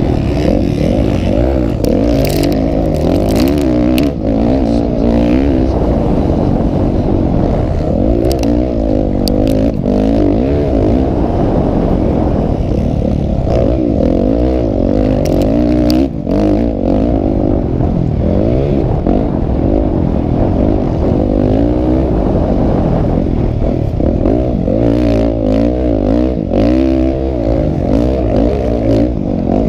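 Several motocross bikes' engines running together, their overlapping notes rising and falling as the riders rev and back off.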